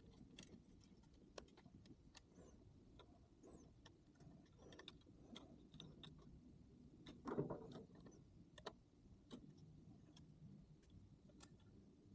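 Near silence with faint scattered clicks and light handling noises, and one louder clunk about seven seconds in.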